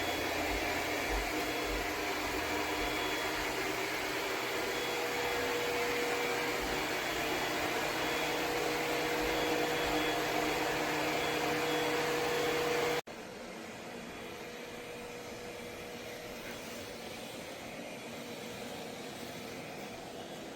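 Robot vacuum running: a steady whir of its suction fan with a few faint steady hums. About 13 seconds in it cuts off abruptly to a quieter steady whir.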